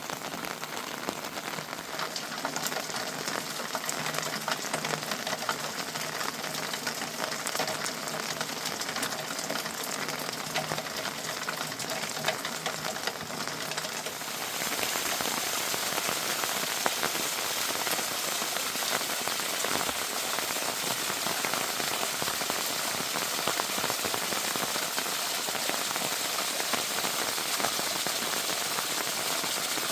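Heavy rain falling, with many separate drops pattering. About halfway through it changes abruptly to a louder, even hiss.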